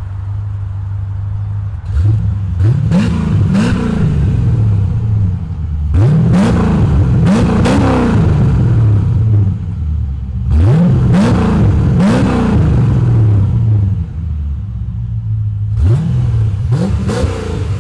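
C4 Chevrolet Corvette's 5.7-litre V8 idling through a Flowchaser muffler and revved in quick pairs of throttle blips, four times, each rev rising in pitch and dropping back to idle.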